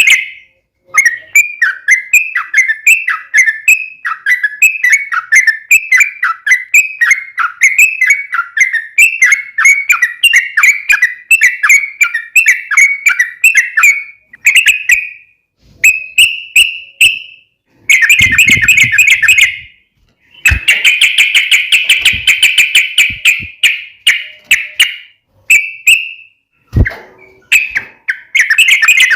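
Yellow-vented bulbul (trucukan) singing loudly: a run of quick bubbly notes, about two or three a second, then short phrases broken by brief pauses, and two stretches of dense, fast chattering in the second half. A few sharp clicks are heard along with it.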